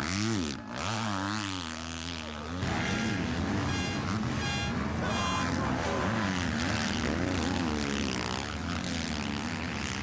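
Motocross bikes racing, their engines revving up and falling off again and again as riders work through corners and jumps; the mix shifts abruptly about two and a half seconds in.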